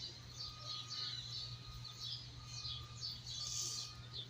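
Small birds chirping: many quick, high chirps, some sliding down in pitch, repeating throughout, over a steady low hum.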